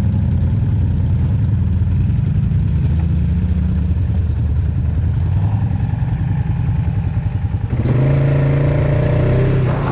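Off-road vehicle engine running with a steady low note. About eight seconds in the sound changes and gets louder, as a higher engine note with several pitches comes in.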